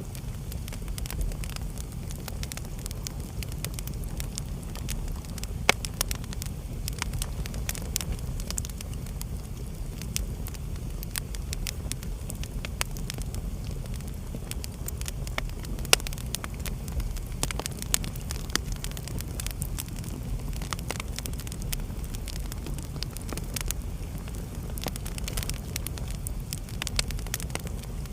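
Wood fire burning in a fireplace, crackling, over a steady low rumble of the flames. Sharp pops come throughout, with the loudest about six seconds in and again about sixteen seconds in.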